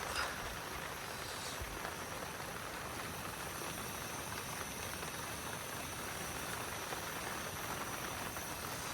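Steady hiss of heavy rain falling on a tent.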